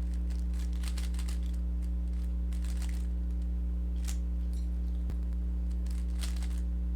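A Rubik's cube being turned through an algorithm: quick plastic clicks and scrapes as the layers turn, faint under a steady low electrical hum.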